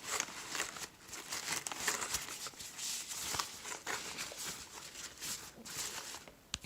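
Grocery bag and packaging rustling in irregular crackles as groceries are handled and taken out.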